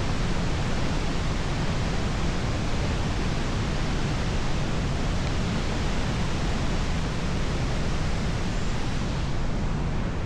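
Steady rush of wind over the microphone of a camera on a moving motorcycle, with no engine note standing out.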